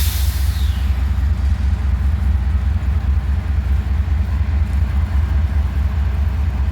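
Diesel freight locomotives with a steady, deep engine rumble. A short sharp burst sounds right at the start.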